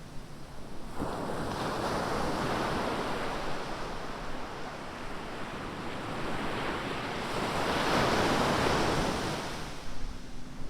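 Ocean surf: a wave breaks about a second in and washes in, a second, louder surge swells around eight seconds in, then the water falls back near the end.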